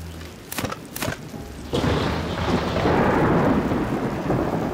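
Cartoon thunderstorm sound effect: two sharp cracks about half a second apart, then a loud, steady wash of rain and thunder that sets in about two seconds in.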